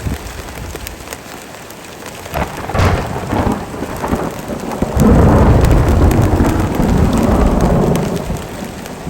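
Heavy rain falling steadily while a clap of thunder crackles in about two and a half seconds in and swells into a loud, low rolling rumble from about five seconds in to eight, then fades away.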